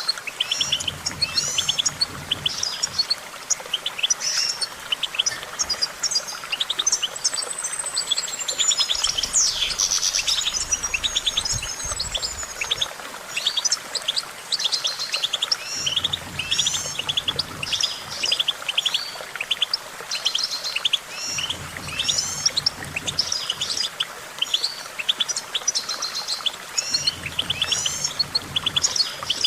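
European goldfinch singing a long, continuous song of rapid twittering chirps and trills, with a drawn-out gliding whistle about seven seconds in.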